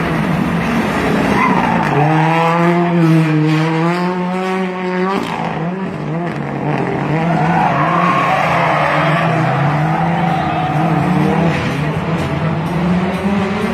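Car engine running hard at high revs, its pitch wavering up and down as the throttle is worked, over a steady noisy rush.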